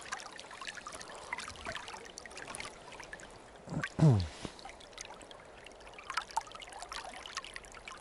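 Water trickling with scattered small clicks, and a short low grunt falling in pitch about four seconds in.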